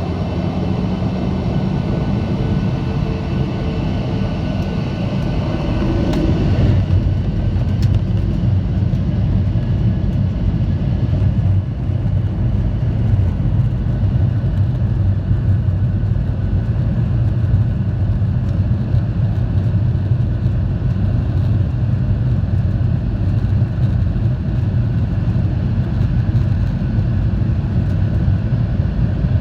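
Jet engine noise of a Boeing 737-800's CFM56-7B turbofans at takeoff and climb thrust, heard as a loud, steady drone. Its tones shift about six to seven seconds in, then it settles into an even low rumble.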